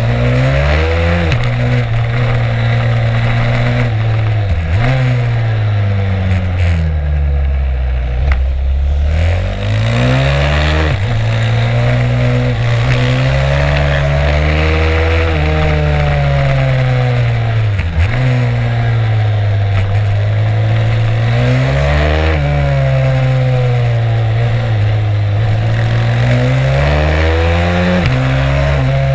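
Stomp 140 pit bike's single-cylinder four-stroke engine heard from onboard while lapping a track. It revs up and down continuously, its pitch climbing under throttle and dropping sharply several times as the rider shifts or backs off for corners.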